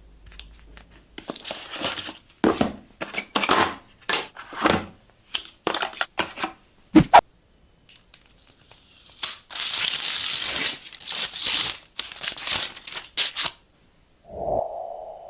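Packaging being opened by hand: irregular rustling, crinkling and tearing of plastic and paper, with a longer continuous tear or peel about nine seconds in. Near the end comes a short ringing tone that fades away.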